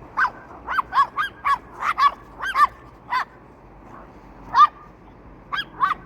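Short animal calls, about a dozen in quick, irregular succession, each a brief rising-and-falling cry.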